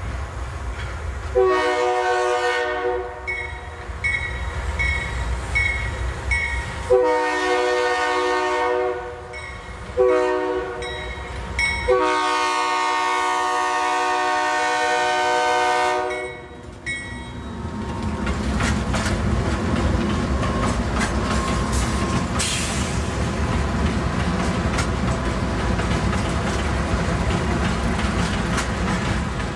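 Diesel locomotive air horn sounding the grade-crossing signal, two long blasts, a short and a long, with the locomotive bell ringing between the blasts. Then the Union Pacific locomotives rumble past with the rolling clatter of the train.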